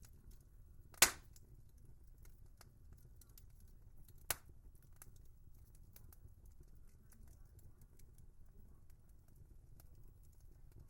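Wood fire crackling: a low steady rumble with scattered small ticks, and two sharp loud pops, a big one about a second in and a smaller one a few seconds later.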